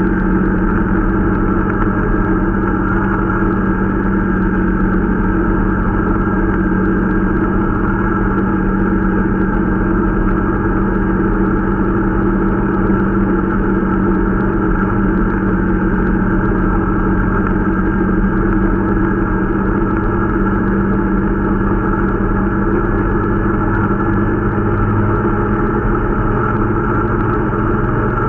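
Irbis Dingo T125 snowmobile's 125 cc engine running steadily at an even pitch, the new machine being run in.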